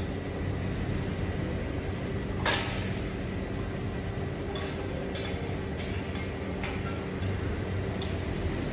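A steady mechanical hum with a few sharp clicks and knocks over it, the loudest about two and a half seconds in.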